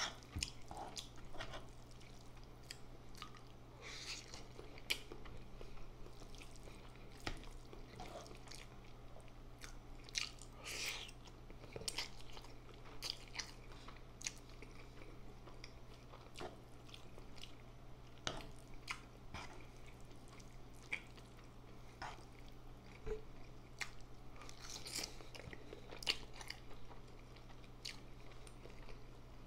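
Close-miked chewing of instant noodles with chicken: wet mouth smacks and short sharp clicks at irregular intervals, with the odd crunch.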